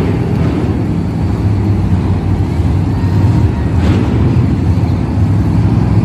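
Monster truck engine running loud and low, with a brief rushing noise about four seconds in.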